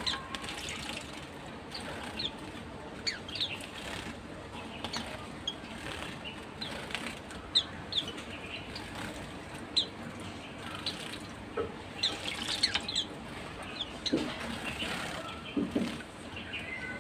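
Small white-eyes (pleci) giving many short, high chirps at irregular intervals, with wing fluttering.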